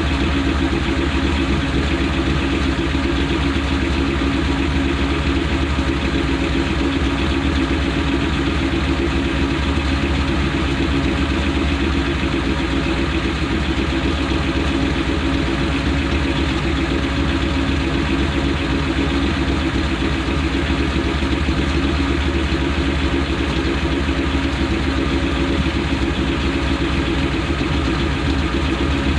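Car engine idling steadily, heard from underneath the car next to the exhaust pipe; the pitch and level hold even with no revving.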